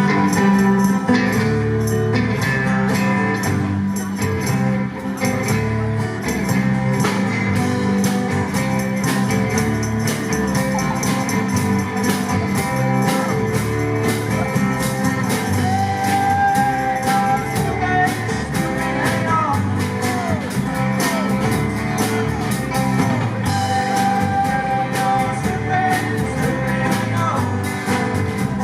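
Live rock band playing a song with a steady beat: drums, guitar and a sustained melodic line.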